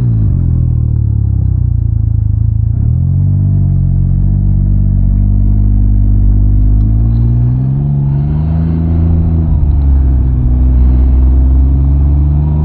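Can-Am Ryker three-wheeler's engine running under way. Its note dips and picks up again about three seconds in, then climbs and eases off again a little past two-thirds of the way through as the bike accelerates and slows.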